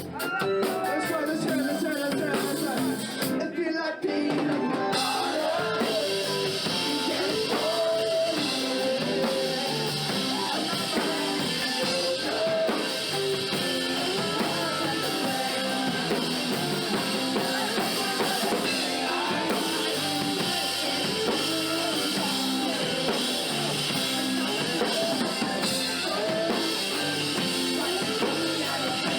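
A live rock band playing a song with drum kit, guitar and singing. The cymbals and full band come in about five seconds in.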